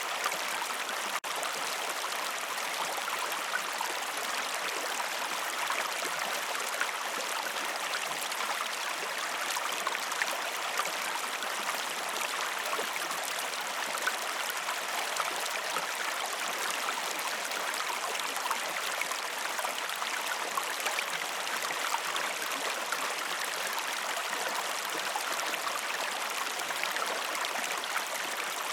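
A river running steadily: an even rush of flowing water, flecked with small splashes and trickles. There is a brief dip in the sound about a second in.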